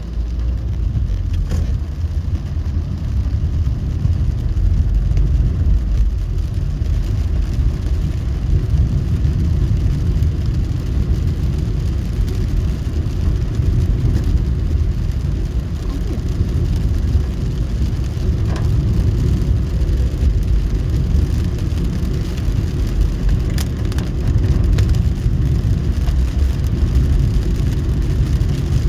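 Car driving on wet city roads: a steady low rumble of engine and tyres, with a few faint clicks.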